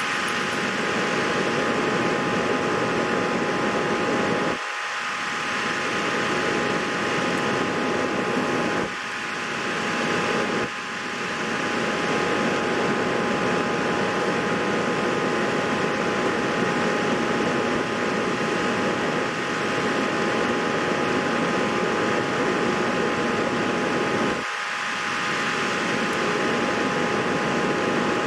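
Steady whirring noise, like a fan running, with a faint steady whine. It dips briefly four times, around 5, 9, 11 and 25 seconds in.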